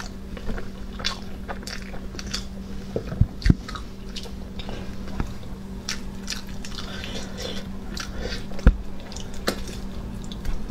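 Close-up eating of a braised pig's trotter: wet biting, chewing and lip smacks as the soft meat is bitten and pulled apart around the bones. A few dull thumps stand out, the loudest about three and a half seconds in and near nine seconds, over a faint steady hum.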